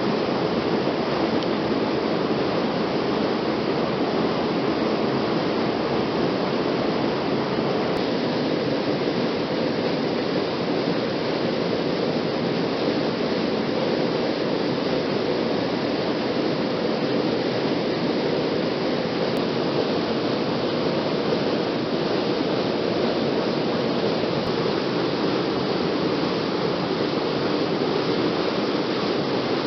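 Waterfall's water rushing steadily, an even unbroken roar.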